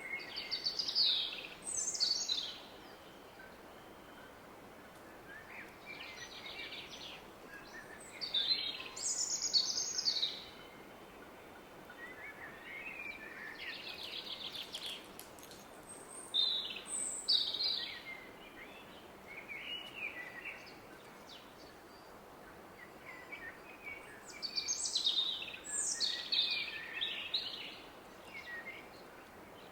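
Songbirds singing short, repeated phrases of chirps and trills every few seconds over the steady roar of a distant river.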